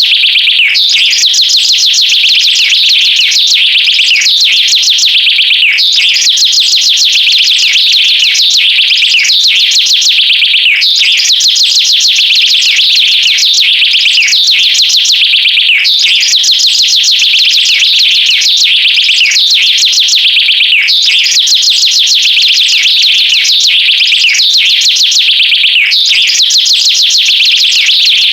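High-pitched, bird-like chirping trills with falling sweeps, repeating as a loop about every five seconds.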